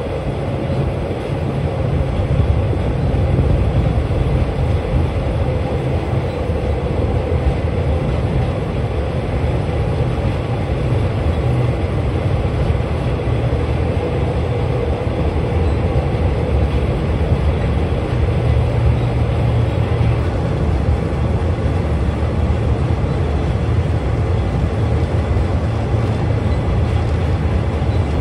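Long-distance passenger train running along an elevated concrete viaduct, heard from an open carriage window: a steady, low rumble of the wheels on the rails.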